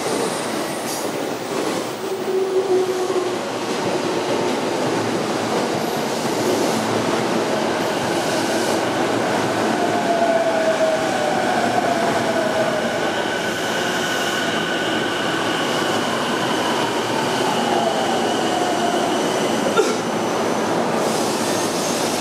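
Two electric commuter trains pulling into the platforms together: a continuous rumble with whines that fall in pitch as the trains slow. A steady high squeal runs through the second half, and there is a sharp knock near the end.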